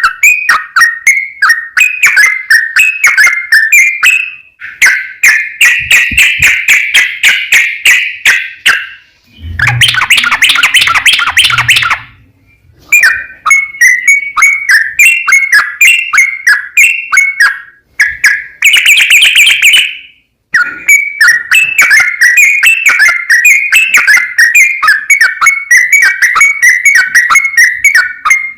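Trucukan (yellow-vented bulbul) singing a long, fast run of chattering, bubbling notes, the rapid rolling 'ropel' song, with brief breaks about 12 and 20 seconds in.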